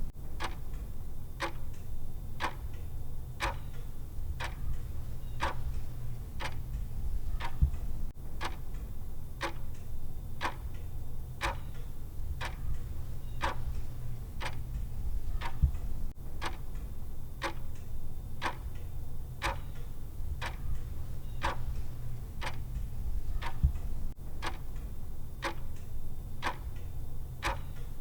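Clock-style tick sound of a countdown timer, one sharp tick about every second, steady and even, over a steady low hum.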